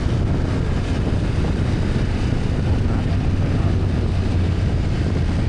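BMW F800GS parallel-twin engine running steadily under way, mixed with a steady rush of wind and road noise.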